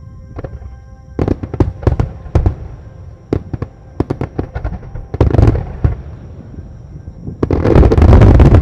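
Starmine fireworks display: aerial shells bursting in quick succession as a string of sharp bangs, starting about a second in. It builds to a dense, continuous barrage near the end.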